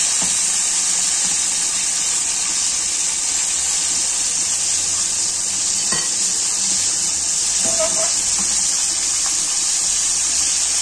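Flour-coated chicken wings deep-frying in hot oil in a pan, a steady sizzling hiss. A single sharp click about six seconds in.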